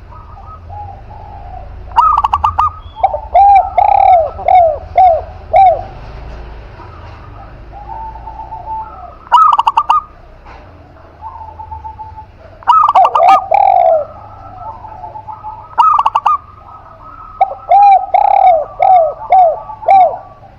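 Spotted dove and zebra dove cooing in turn, in repeated phrases. Each phrase is a quick rattling trill of clicky notes, or a run of five or six rounded coo notes.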